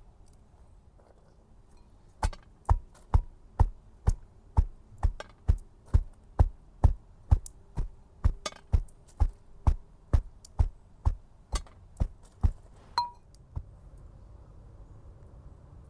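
A run of about twenty evenly spaced knocks, roughly two a second, starting about two seconds in and stopping a few seconds before the end, followed by a brief ringing ping.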